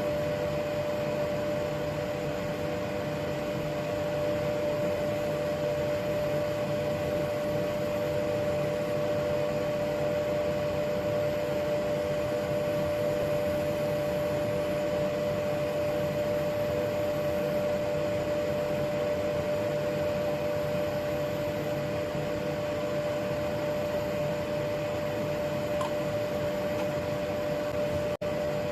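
Steady drone of a woodturning lathe running with dust extraction, an even hum with no distinct cutting strokes.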